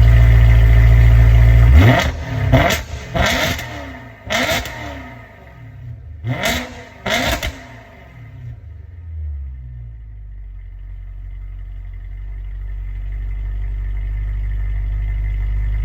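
BMW E90 M3's V8 running through an M Performance exhaust with an aFe 300-cell resonated X-pipe, still cold: it idles, is blipped sharply about eight times in two quick groups, each rev dropping straight back, then settles into an idle that slowly grows louder.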